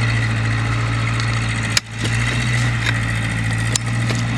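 An engine running steadily at a constant pitch, with a sharp click and a brief drop about two seconds in.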